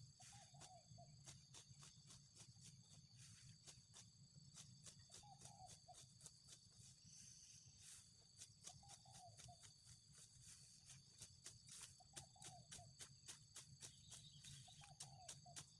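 Faint rural ambience: a steady high buzzing of insects, a short hooting bird call repeated every few seconds, and many faint light clicks.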